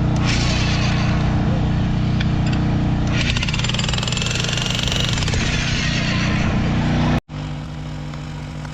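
Heavy machinery at work: a steady-running engine, with rapid jackhammer hammering on concrete coming in about three seconds in. Just past seven seconds the sound cuts off abruptly and comes back as quieter, steady engine running.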